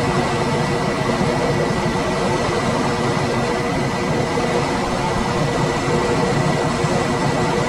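Room air conditioner running steadily: a constant blowing rush with a low motor hum and a faint high tone.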